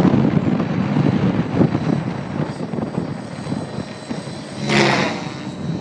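Align T-Rex 700E electric RC helicopter flying 3D aerobatics: its rotor blades whoosh, loudest for the first couple of seconds and then falling away, over a faint steady high whine. A short louder burst comes about five seconds in.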